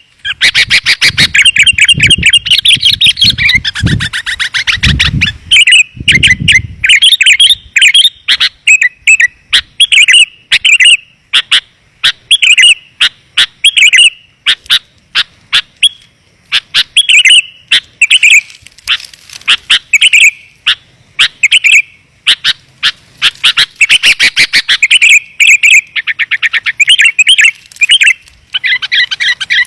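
Sooty-headed bulbul (kutilang) song in a loud, rapid run of chirps and short warbled phrases, broken by brief pauses. It is a lure call used to draw in wild bulbuls. A low rumble sits beneath the first six seconds or so.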